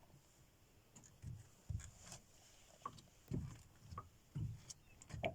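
A series of soft, irregular low knocks and bumps, some with a light click, about one a second.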